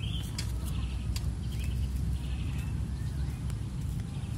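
A small bird chirping in short repeated phrases, several times, over a steady low rumble of wind on the microphone, with a few light clicks.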